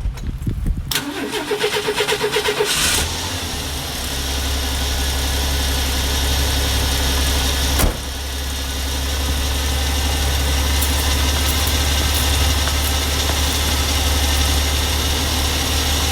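Ford 300 inline-six cranked on the starter for about two seconds without touching the throttle. It catches and settles into a steady, smooth idle, now that the vacuum leak at a misplaced gasket is sealed. A single sharp knock sounds about halfway through.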